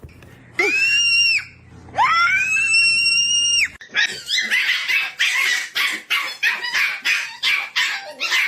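A dog gives two high-pitched, drawn-out cries that rise and then hold, the second longer, then breaks into a rapid run of short, rough barks at about four a second.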